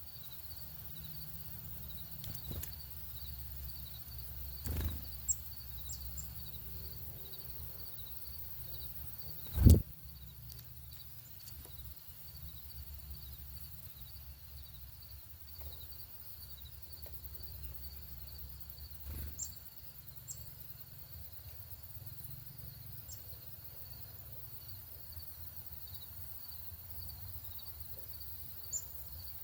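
Outdoor ambience with a low rumble and a steady pulsing insect trill. A bird gives a few short, high, falling chip notes, in pairs about five and nineteen seconds in and singly later. Dull thumps come about five, ten and nineteen seconds in; the one near ten seconds is the loudest sound.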